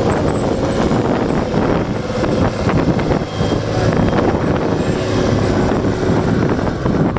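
Smart car monster truck's engine running loudly and roughly, with a steady hum sitting in it through the middle.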